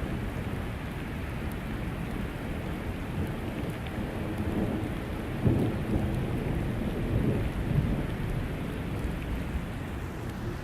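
Rainstorm: steady heavy rain with a deep rumble that swells louder about halfway through.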